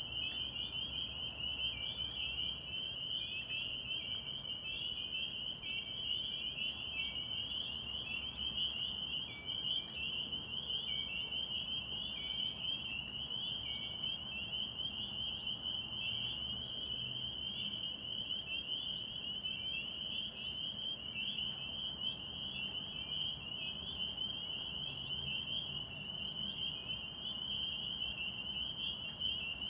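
A dense chorus of spring peepers (Pseudacris crucifer), many high peeps overlapping into a continuous shrill ringing. Through the first half, slightly lower individual peeps repeat at a regular pace beneath the mass of the chorus.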